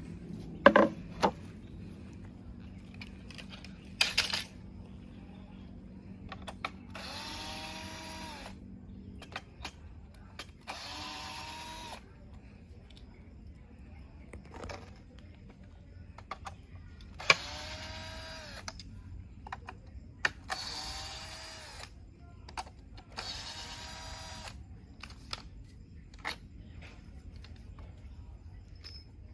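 A cordless drill-driver unscrewing screws in short runs, five bursts of about a second and a half each, its motor whine bending in pitch as it spins up and slows. A few sharp clicks come near the start.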